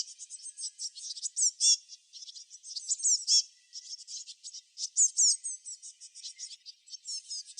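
Small songbirds chirping: a dense, high chatter of quick chirps, many sweeping down in pitch. It comes in clusters with brief lulls about two seconds in and again past six seconds.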